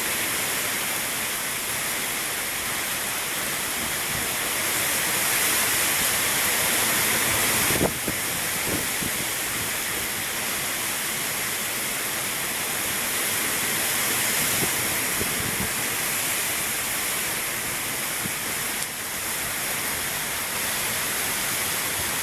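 Steady rushing noise of a gust-front storm passing over, with a brief knock about eight seconds in.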